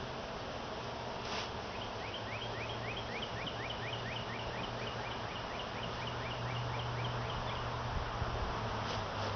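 Honeybees humming steadily around a freshly installed hive, while a bird sings a long series of quick, short repeated chirps, about four a second, from about two seconds in until near the end.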